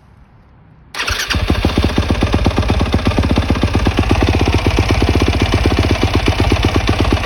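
Yamaha YZ250F dirt bike's single-cylinder four-stroke engine, coming in suddenly about a second in and then running at a steady idle with a fast, even pulse. The engine has just been refilled with fresh oil and is running so the oil level can settle for checking.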